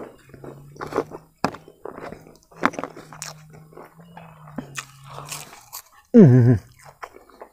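Close-up eating sounds: chewing, crunching and lip smacks over a steady low hum that stops about five and a half seconds in. About six seconds in there is a loud, brief voiced exclamation.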